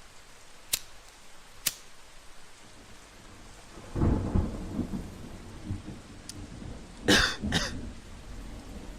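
Steady rain with a rumble of thunder rolling in about four seconds in. Two sharp clicks come early, and two loud bangs half a second apart come near the end, the loudest sounds here.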